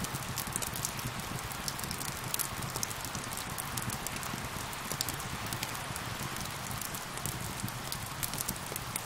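Steady rain mixed with a crackling wood fire: an even hiss of rainfall with frequent sharp crackles and pops from the burning wood.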